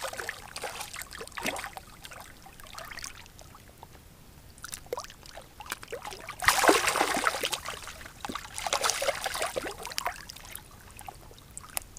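Water splashing and trickling as a hooked smallmouth bass is pulled through the shallows. There are two louder splashes, about six and a half and nine seconds in.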